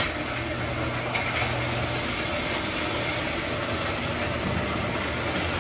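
Car engine idling steadily, with a single click about a second in.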